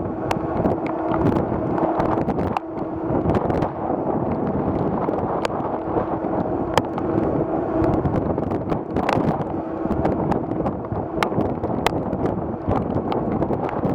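Wind buffeting the microphone with a steady low hum underneath and scattered sharp ticks.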